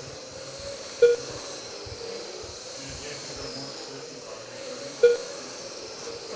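Electric RC trucks with 21.5-turn brushless motors running laps, a steady hiss with faint high motor whines rising and falling. Two short, loud electronic beeps sound about a second in and again four seconds later.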